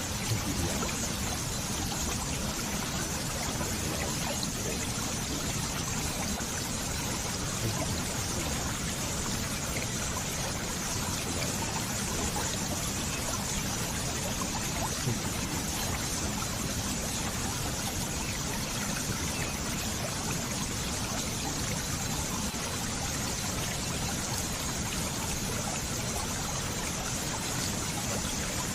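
Running water flowing steadily, an even trickling and splashing rush that goes on without a break.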